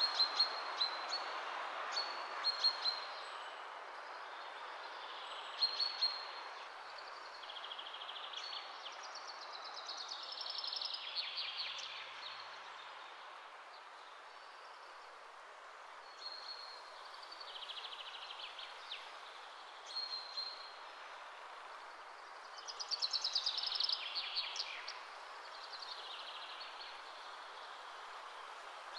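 Birds chirping over a steady background hiss, with short high chirps recurring through the first few seconds and two busier bursts of rapid trilling song around ten and twenty-three seconds in.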